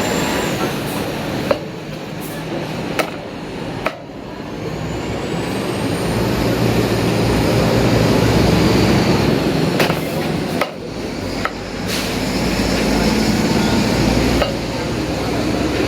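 Steady traffic noise from a busy road, swelling in the middle, with a few sharp knocks scattered through it.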